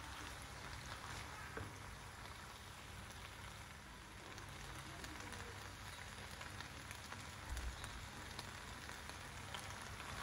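Macaroni and chopped vegetables sizzling in oil in a frying pan as they are stirred with a silicone spatula: a steady hiss with scattered small clicks, and a soft knock a little past halfway.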